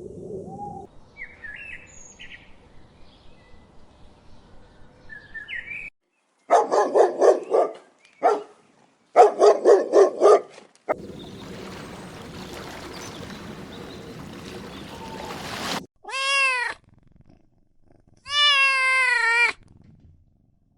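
A cat meowing twice near the end, each meow a clear pitched call that rises and falls. Before that come two spells of rapid rasping pulses and a few seconds of steady hiss-like noise.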